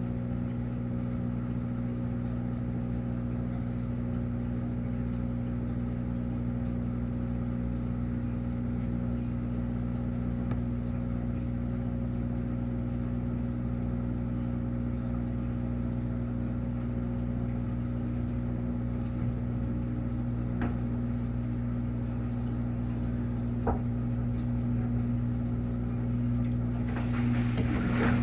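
Washing machine running with a steady motor hum, with a couple of light clicks in the second half. Near the end the churning grows louder and noisier.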